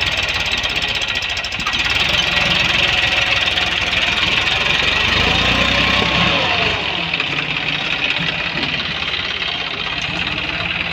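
Tractor diesel engine running with a knocking beat. It grows louder for a few seconds around the middle, then settles lower.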